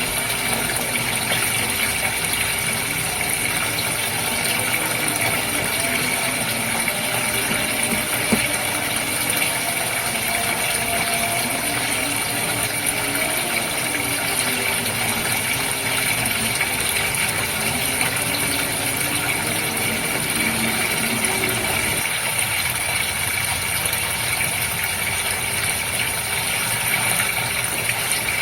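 Water running and splashing steadily in a goldfish aquarium, with the steady hum of the tank's pump.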